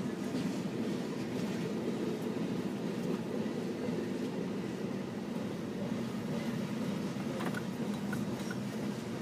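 Norfolk Southern freight train's open-top hopper cars rolling past a grade crossing: a steady rumble of steel wheels on rail, with a few faint ticks near the end, heard from inside a waiting car.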